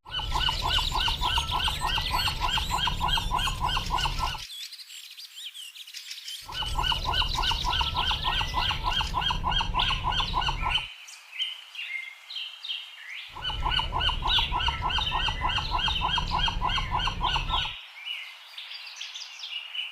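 Birds calling: a rapid, even run of calls at about five or six a second over a higher chatter. The run comes three times, each lasting about four and a half seconds, with short gaps between.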